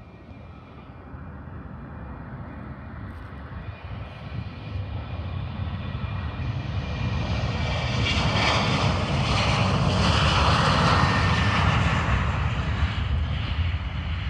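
Airplane passing close by, its engine noise growing steadily louder, peaking about three-quarters of the way through, then easing off a little, with a faint whine that drops in pitch as it goes by.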